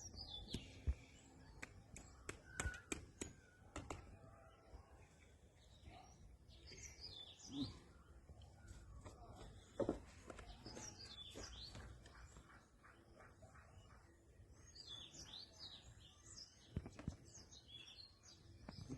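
Birds chirping faintly in a few clusters of quick high chirps, with scattered light clicks and knocks, most of them in the first few seconds.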